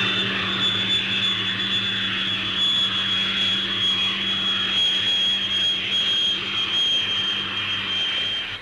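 Folland Gnat jet engine running, a steady high-pitched whine over a rushing noise, the pitch sinking slightly; it cuts off suddenly near the end. A steady low hum lies underneath.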